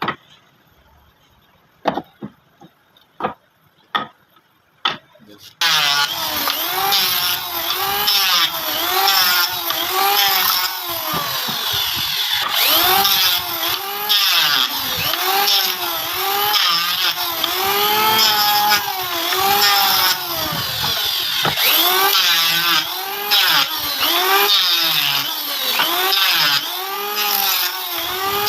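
A few sharp knocks on wood, then from about six seconds in a saw cutting through wood in steady rhythmic back-and-forth strokes, the pitch rising and falling with each stroke.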